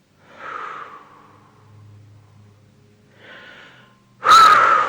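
A person breathing hard under exercise effort: a forceful exhale about half a second in, a softer breath past three seconds, and a loud, sharp blow of breath near the end.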